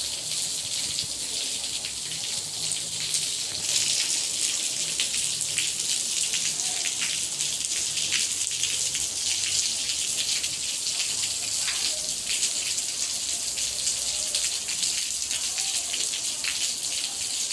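Steady rain falling hard, a continuous hiss with the patter of individual drops striking surfaces.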